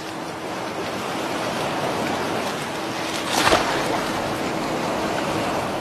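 Sea surf and moving water, a steady wash of noise, with a brief louder splash about three and a half seconds in.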